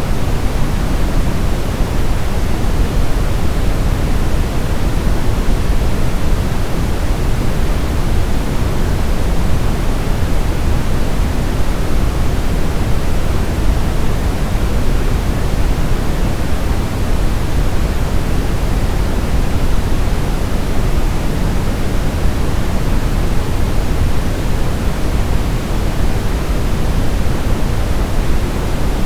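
Steady, unchanging white noise for baby sleep, a loud even hiss weighted toward the low end like pink noise.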